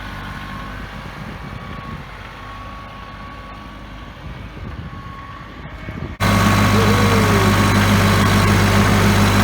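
Farm tractor engine running steadily; about six seconds in it suddenly becomes much louder and closer, a steady low drone.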